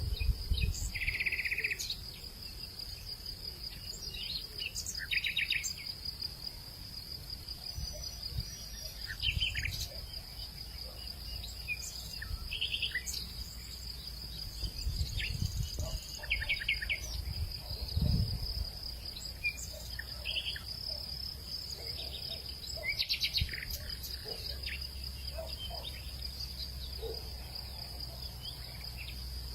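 Outdoor evening ambience: a steady, pulsing insect trill, cricket-like, runs throughout, with short bird chirps scattered over it and low rumbles coming and going.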